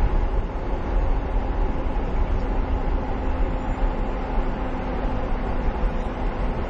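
Heavy-duty truck running on the road: a steady low rumble with a faint engine hum.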